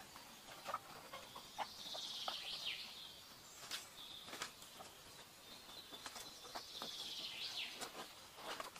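A bird calls twice, about five seconds apart; each call is about a second long, rising and then sweeping down. Faint scattered clicks and rustles run underneath.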